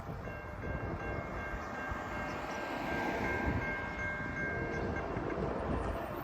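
Norfolk Southern freight locomotive's air horn sounding one long chord of several notes, cutting off about five seconds in, over a steady low rumble.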